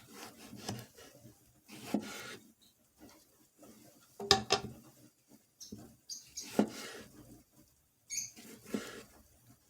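Kitchen food-prep handling sounds: scraping and rubbing in short irregular bursts, with a few sharper knocks, the loudest about four seconds in.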